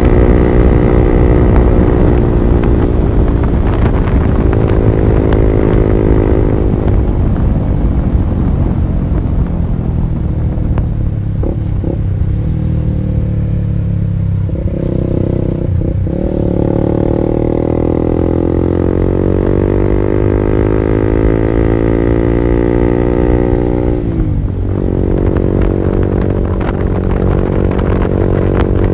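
Honda CB150R's single-cylinder engine running through an R9 Alpha Series aftermarket exhaust while being ridden. The engine note falls as the bike slows over the first ten seconds or so, then climbs steadily under acceleration. It drops sharply once about two-thirds of the way through and then holds steady.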